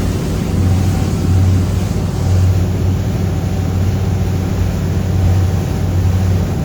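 Twin Cummins 8.3 diesel engines of a 44-foot Sundancer cruiser running at cruising speed, about 2,200 RPM. A low hum swells and fades about once a second under a steady rushing noise.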